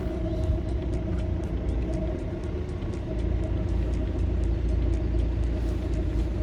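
Car driving slowly, heard from inside the cabin: a steady low rumble of engine and road noise that grows a little stronger about halfway through.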